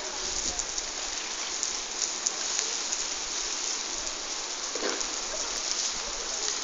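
Heavy rain falling, a steady hiss with the patter of drops striking a hard surface.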